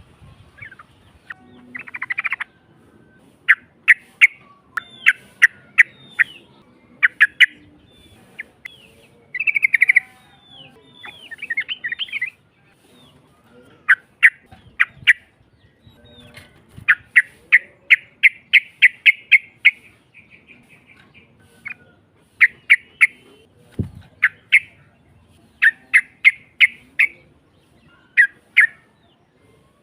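Yellow-vented bulbul (trucukan) singing in bursts of sharp, chattering notes, with a long rapid run of evenly spaced notes about halfway through. One brief low thump comes about two-thirds of the way in.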